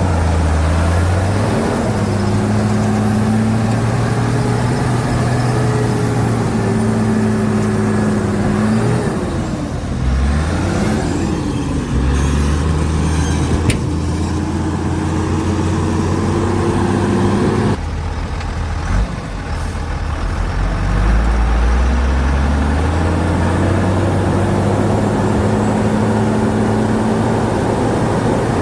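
Shantui DH17C2 bulldozer's diesel engine working under changing load. Its pitch holds, then dips and rises several times, changes abruptly about two-thirds of the way through, and then revs climb again.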